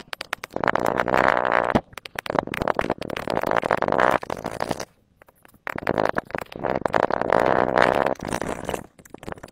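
Slime being squeezed and worked by hand, squelching wetly with rapid crackles of air pockets, in three bouts separated by short pauses.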